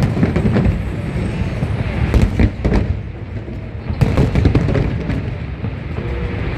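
Fireworks going off in quick succession: deep booms with sharp crackling bursts layered over them, thickest about two seconds in and again about four seconds in.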